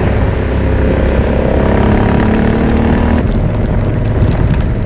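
Motorcycle engine running under way, its note rising slightly, then dropping away suddenly about three seconds in, leaving steady wind and road noise.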